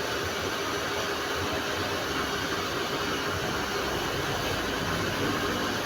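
Electric water pump running steadily, a continuous mechanical hiss with a low hum, as it charges the pressure tank.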